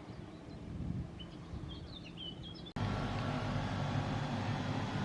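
Outdoor ambience: a low rumble with a small bird chirping a quick run of notes, then an abrupt cut about two and three-quarter seconds in to a louder, steady low rumble.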